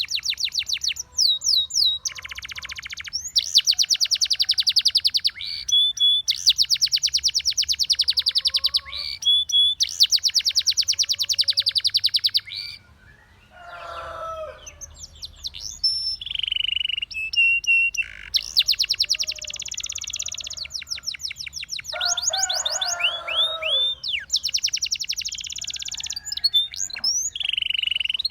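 Domestic canary singing: long phrases of rapid, high-pitched trills broken by short pauses, with lower warbling phrases about halfway through and again a few seconds later.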